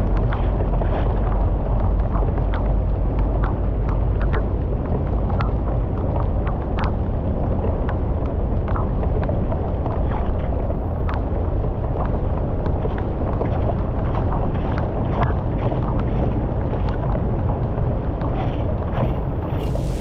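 Rushing flood water draining through a culvert: a steady low rumbling rush with many short sharp splashes or clicks scattered through it.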